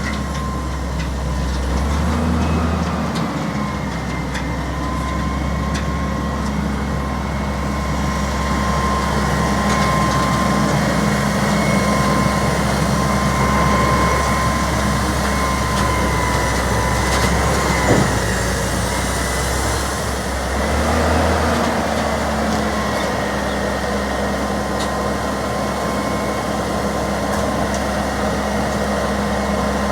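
Garbage truck's engine running steadily, with a thin high whine held over it and one sharp knock near the middle.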